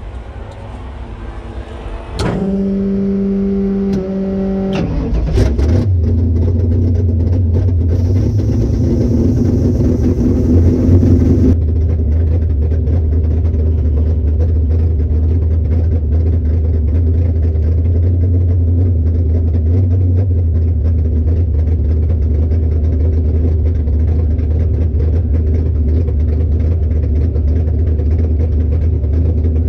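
Car engine running, louder from about two seconds in, then settling into a steady low drone for the rest of the time.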